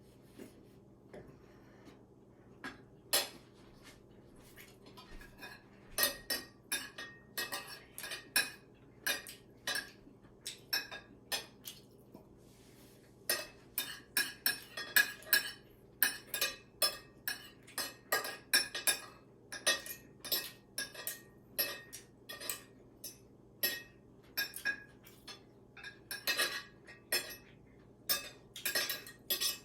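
Eating utensils clinking against dishes during a meal: many short, irregular clinks, busier in the second half, over a faint steady hum.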